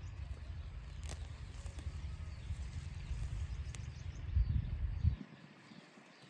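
Outdoor ambience with a low, uneven rumble that cuts off abruptly about five seconds in, and a couple of faint clicks.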